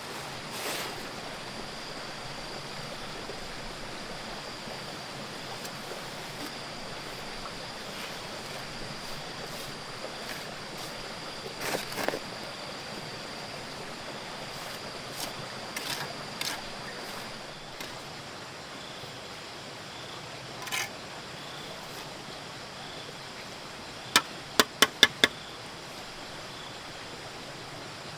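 Steady outdoor background noise with a few scattered light knocks, then a quick run of five sharp knocks in about a second near the end.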